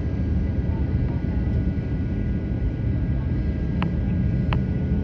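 Steady low rumble inside the cabin of an Airbus A350-900 with its Rolls-Royce Trent XWB engines running, with a few faint steady whining tones over it. Two short clicks come a little after three and a half seconds in.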